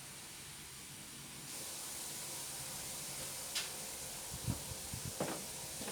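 Water running steadily from a tap, getting louder about one and a half seconds in, with a few light knocks and clatters near the end.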